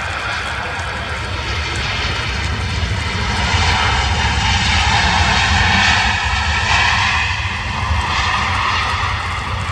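Jet engines of an Air Canada Boeing 787-9 Dreamliner on arrival, a broad roar that builds to a peak about halfway through and then eases off.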